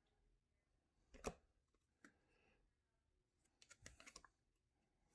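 Baseball trading cards being handled and flipped through: a few faint clicks and taps, a single one about a second in and a quick run of them near the end, otherwise near silence.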